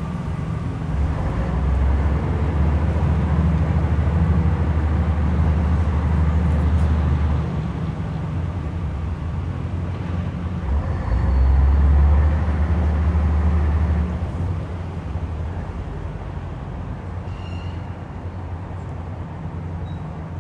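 Tugboat's diesel engine running with a deep, steady rumble, swelling louder twice and then easing off.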